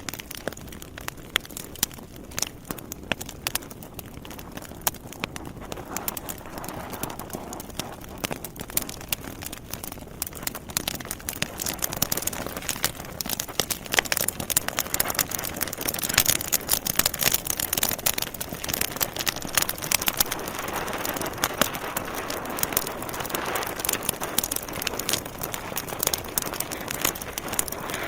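Wood logs burning in a fireplace: a steady rush of flame with dense, irregular crackles and sharp pops, growing a little louder about ten seconds in.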